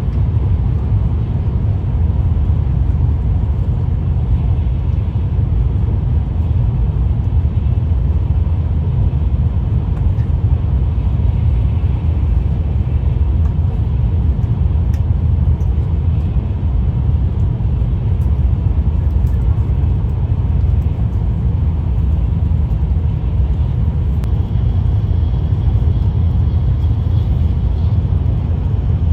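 Shinkansen bullet train running steadily, heard from inside the passenger cabin: an even, deep rumble of the train's running noise.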